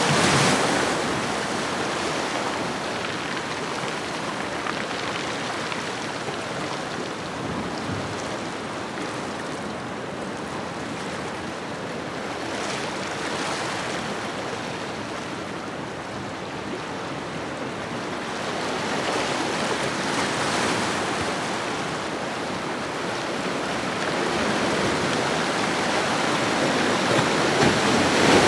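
Ocean waves washing onto a shoreline as a steady hiss of surf. The wash eases after the start, swells again about two-thirds of the way through, and builds once more near the end as the next wave comes in.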